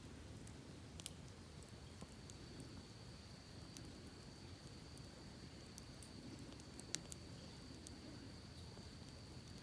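Campfire crackling with scattered sharp pops, one louder pop about seven seconds in, over the low steady rush of a creek. A thin steady insect buzz comes in about a second in and holds.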